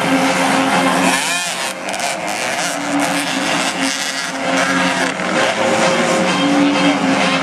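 Motocross bikes racing, their engines revving and running on the track, with one bike sweeping past about a second in.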